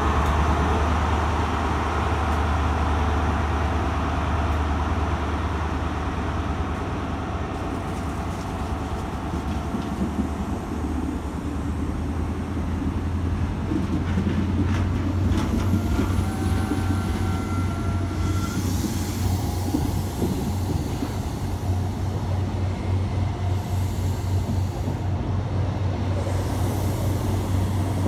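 Diesel train at a station platform, its engine a steady low drone that turns to a rhythmic throb about halfway through, with a few short high squeals around the middle.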